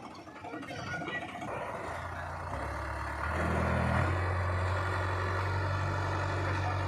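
Heavy vehicle engine running with a low, steady drone that grows louder and rises in pitch in a few steps over the first four seconds, then holds.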